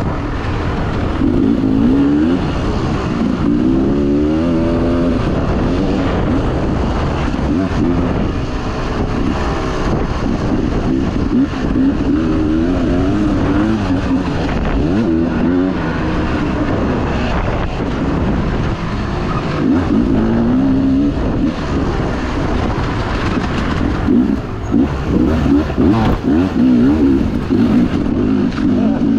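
Dirt bike engine being ridden hard, its revs rising and falling over and over as the rider works the throttle and gears, over steady wind and track noise.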